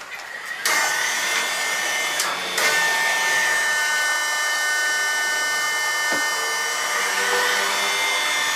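Sawmill power saw running with a steady high-pitched whine over a hiss. It picks up under a second in and steps up slightly after a brief dip a couple of seconds later.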